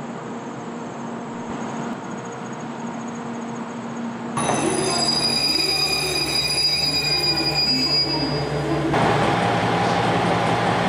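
Platform hum for about four seconds, then a JR West KiHa 120 single-car diesel railcar pulling into the platform, its brakes and wheels giving a high, whistling squeal. About nine seconds in, the squeal gives way to a steadier hum as the railcar stands at the platform.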